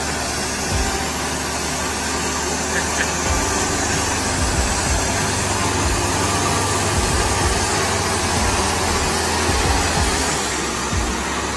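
Heavy vehicle engine running steadily, a low rumble under an even hiss of noise.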